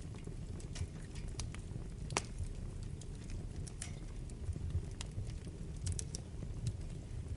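Wood fire burning in a fireplace: a steady low rumble of flames with scattered sharp crackles and pops of burning wood, the loudest a little over two seconds in.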